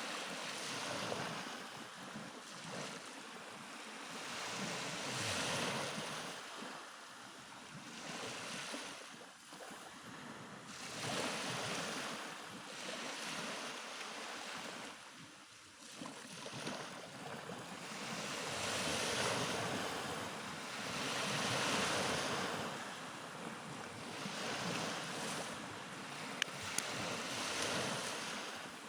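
Black Sea waves breaking on the shore, the surf swelling and falling back every few seconds, with wind on the microphone. Two brief clicks near the end.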